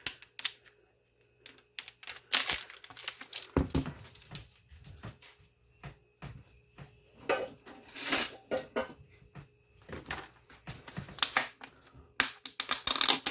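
A plastic whipped-topping tub being opened: irregular clicks, crinkles and scrapes from the plastic lid and foil seal, with a few light knocks against the counter.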